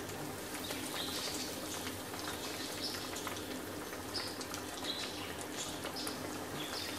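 Chicken wings shallow-frying in hot oil in a pan: a steady sizzle with scattered crackles and pops.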